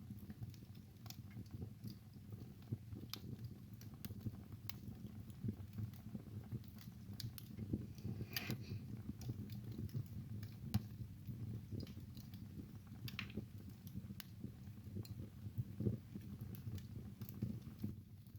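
Wood fire burning in a fireplace: a low soft rumble of flames with irregular small crackles and pops from the burning logs.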